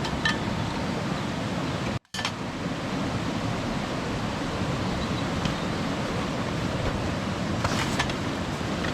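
Mountain stream rushing steadily over rocks, cutting out completely for a moment about two seconds in.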